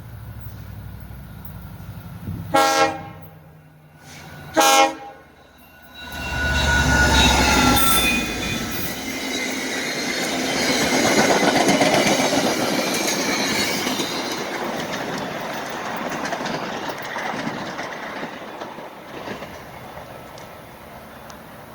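Train horn sounding two short blasts, then a train passing with wheels clattering on the rails, loud for several seconds and fading away.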